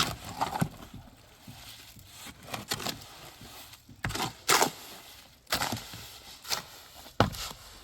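Several short scraping strokes of a tool working wet cement mortar, coming irregularly, with the loudest ones in the second half.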